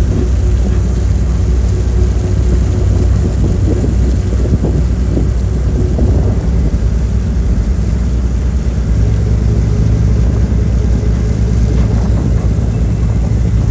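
Car ferry's diesel engines running steadily: a loud, deep, unbroken rumble with a steady hum.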